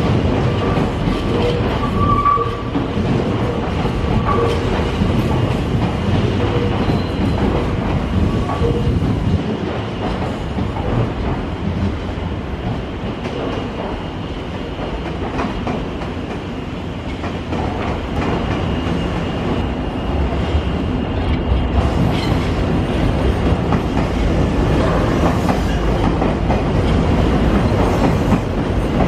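A Nankai electric train moving along the platform tracks, with steady wheel-on-rail running noise and faint high squealing tones in the first several seconds.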